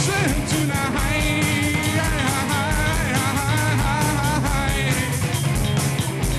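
Rock band playing: drums with a steady run of cymbal strokes, a bass line, and a lead melody that bends and wavers in pitch over it.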